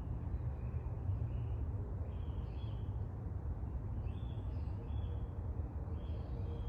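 Small birds chirping in short, faint calls every second or two over a steady low rumble.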